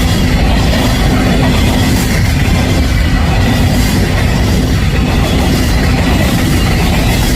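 A freight grain train's cars passing close by on the rails, a loud steady rumble that does not let up.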